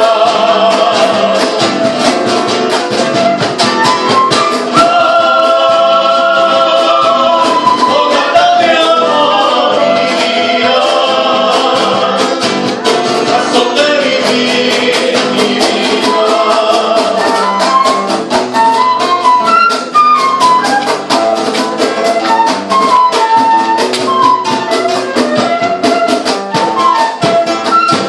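Live Latin American song played and sung by a group of amateur musicians, with fast, steady percussion and a high melody line.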